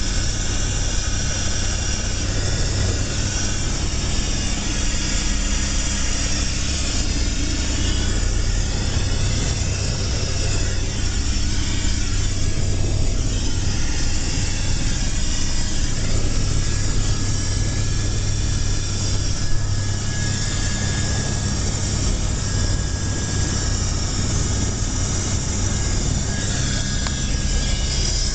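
Helicopter rotor and turbine engine running steadily, heard from inside the cabin: a constant low drone with a thin high whine over it.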